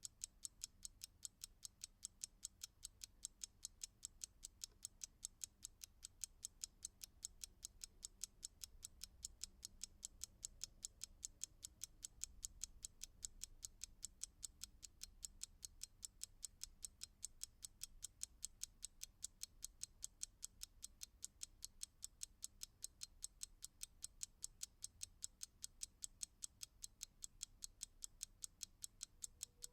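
A clock ticking steadily: quiet, crisp, evenly spaced ticks, several a second, with no change in pace.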